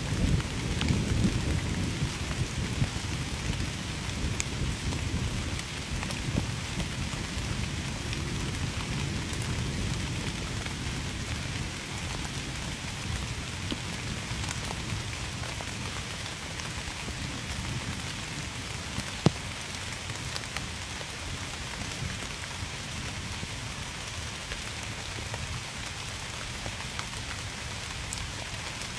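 Steady heavy rain falling on a surface, with a low rumble of thunder in the first few seconds that fades away. A single sharp drip-like click stands out about two-thirds of the way through.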